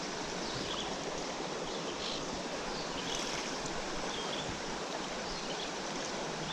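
Mountain stream rushing steadily over rocks, a constant even wash of moving water.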